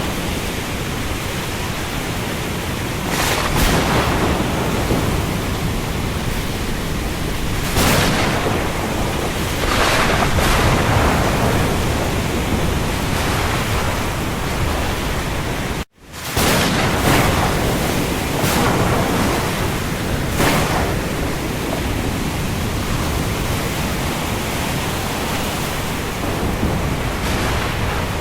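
Steady rain over the sea with waves swelling every few seconds, an even hiss with rushing surges. The sound drops out for an instant a little past halfway, at a splice in the recording, then resumes.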